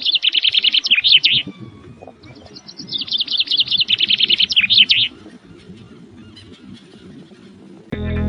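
A small songbird singing two fast, trilling phrases about two seconds apart, each lasting about two seconds, over a low background rumble. Music starts right at the end.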